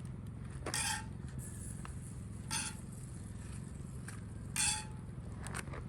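Cooking utensils scraping and clinking against cookware and dishes three times in short strokes, while the fajitas are dished up, over a steady low hum.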